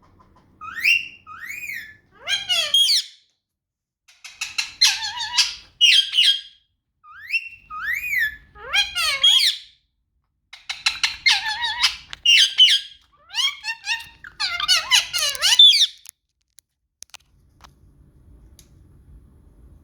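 Indian ringneck parrot calling in five bursts of chattering squawks mixed with short rising whistles, falling quiet about 16 seconds in.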